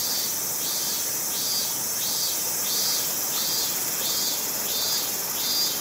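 Insects calling in a regular pulsing rhythm, about three pulses every two seconds, over a steady high hiss of rushing stream water.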